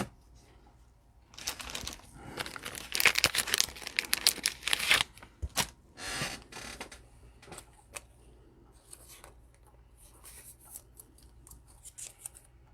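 A trading card pack wrapper being torn open and crinkled, with a few seconds of dense crackling starting about a second and a half in, then scattered small clicks and rustles.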